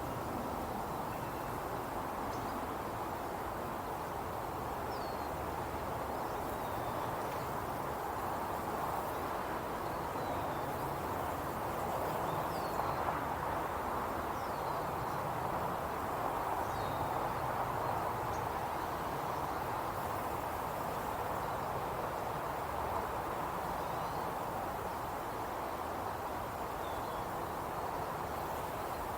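Outdoor nature ambience: a steady rushing hiss with short, faint bird chirps every few seconds.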